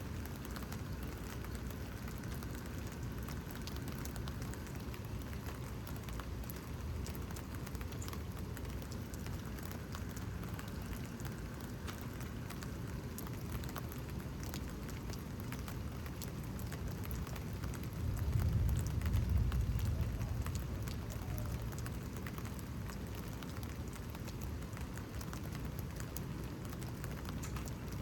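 Steady rain falling with scattered drips and ticks. Low thunder rumbles and swells for a few seconds about two-thirds of the way through.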